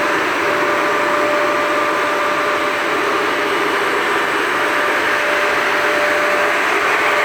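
Industrial axial fan for high-temperature furnace duty running steadily at 3000 rpm: a constant rush of moving air with a steady whine over it.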